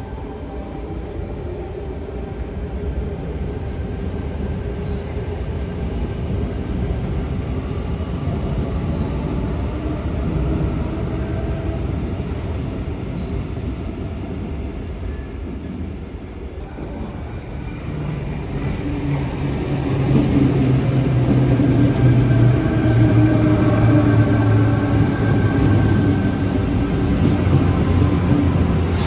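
Electric suburban train running through the station: a continuous rumble with a steady motor hum, growing louder and heavier about two-thirds of the way in.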